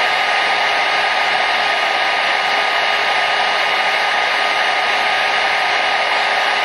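Hair dryer running steadily: an even, unchanging whoosh of blown air with a faint motor whine.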